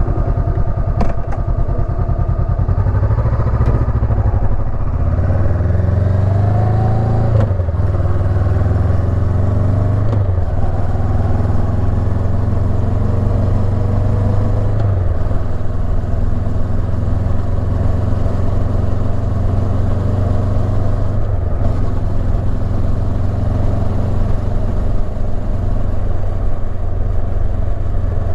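Honda CB500X's parallel-twin engine: steady at first, then pulling away a few seconds in with rising pitch and a couple of gear changes, before settling into a steady cruise.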